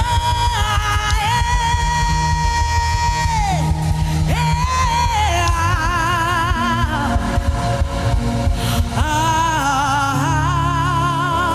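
Gospel worship song: one voice holding long, high sung notes with wide vibrato, gliding down between phrases, over a band with bass and drums.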